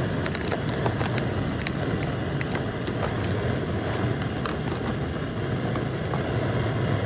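Portable gas camp stove burner running steadily under a pot of water, a constant hiss with a low hum and scattered faint ticks.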